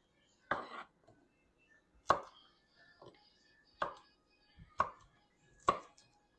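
Five sharp knocks of kitchen utensils, about a second apart, with quiet between.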